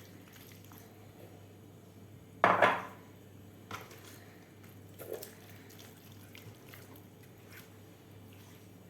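Kitchen handling noise as seafood is packed into a whole fish. There is a short, loud noise about two and a half seconds in, then a few faint clicks.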